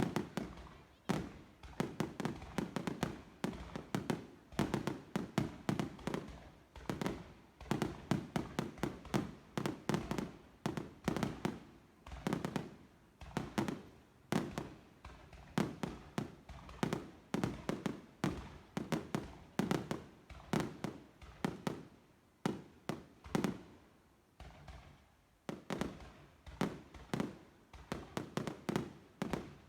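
Fireworks bursting in a dense barrage: overlapping bangs several to the second, with a few short lulls.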